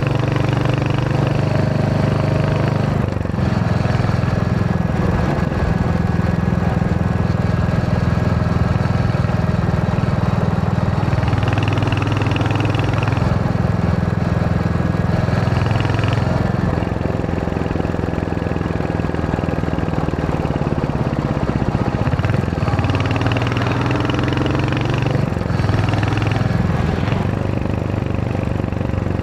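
Royal Enfield Hunter 350's single-cylinder engine running while riding, its note rising and falling several times as the revs change.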